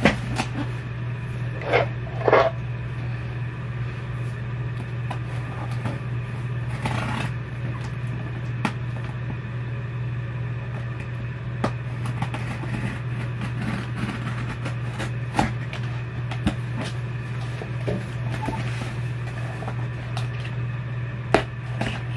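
A cardboard shoebox and its packaging being handled with a knife: scattered sharp clicks, scrapes and a few short rustles over a steady low hum.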